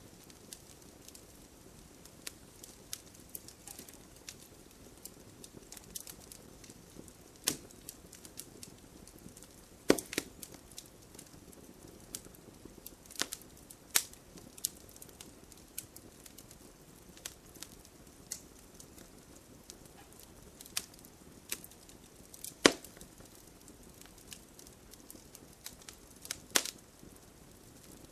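Wood fire burning in a fireplace: a soft steady hiss with frequent crackles and occasional louder pops, the loudest about ten seconds in and near the last quarter.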